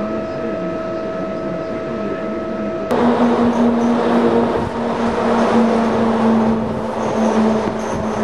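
Steady electrical hum from a standing Slovenian Railways class 541 (Siemens Taurus) electric locomotive. About three seconds in it gives way to the louder running noise of a moving passenger train, heard through an open window: wheel rumble and rushing air under a steady low hum.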